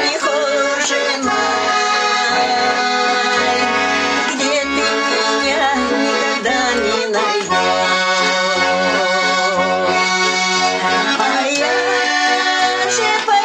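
Garmon, a Russian button accordion, playing an instrumental passage: a melody over sustained chords with bass notes sounding on and off underneath.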